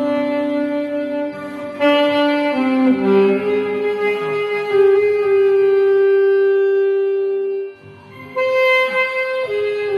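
Saxophone playing a slow, lyrical ballad melody: a few short notes, then one long held note for about four seconds, a brief break for breath near the end, and the tune picking up again.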